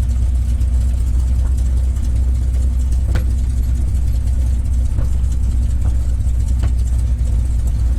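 North American P-51 Mustang's Merlin V12 engine running steadily at low, near-idle power while the aircraft taxis: a deep, even drone.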